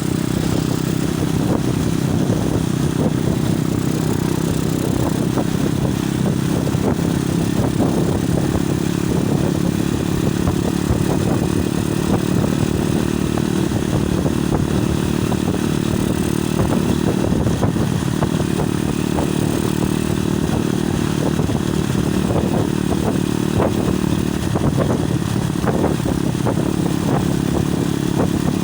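Heavy wind buffeting a phone's microphone on a moving motorcycle, with the motorcycle engine running steadily underneath.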